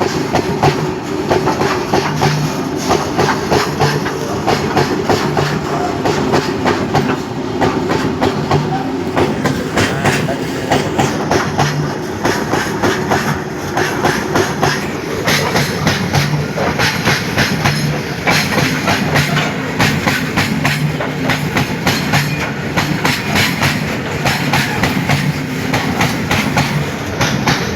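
Moving train: wheels clicking over rail joints in a steady clickety-clack, with a low beat repeating about every second and a half.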